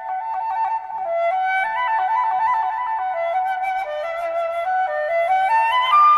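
Flute music: a single melodic line moving in small steps, climbing higher near the end.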